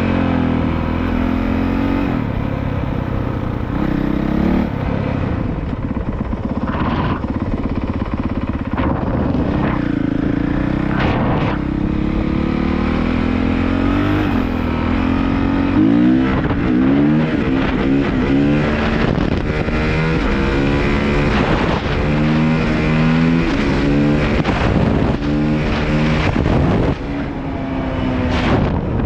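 Honda CRF450R's single-cylinder four-stroke engine running as the dirt bike is ridden. Its note rises and falls over and over with the throttle and gear changes, and the swings come quicker in the second half.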